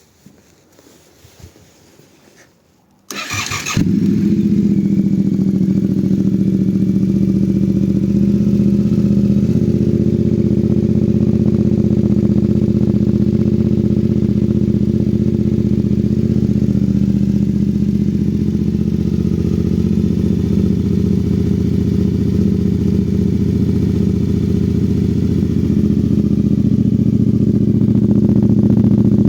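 Yamaha Ténéré 700's parallel-twin engine, fitted with a MIVV Oval slip-on silencer, cold-started: a few faint clicks, then the starter cranks about three seconds in and the engine catches within a second. It settles into a steady idle, a little louder near the end.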